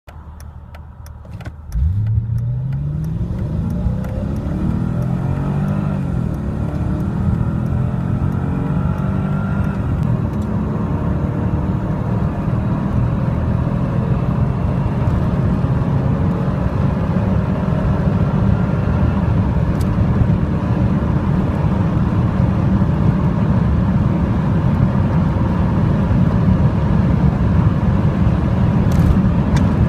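Mercedes W210's swapped-in M113 5.0-litre V8 pulling hard from a standstill about two seconds in, its note climbing in pitch through the gears. It then gives way to a loud, steady rush of engine, wind and road noise that slowly builds as the car nears top speed.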